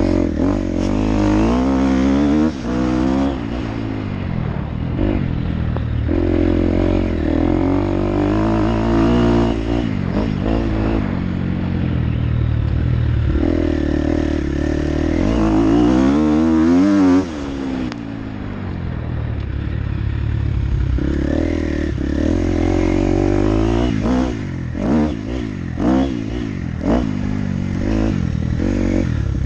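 Motocross dirt bike engine being ridden hard, revving up and falling back again and again, with a sudden drop in revs about halfway through. Scattered clattering knocks come through over the engine.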